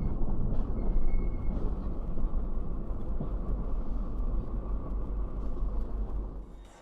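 Steady low rumble of a car driving, as heard from inside through a dash camera, fading out near the end.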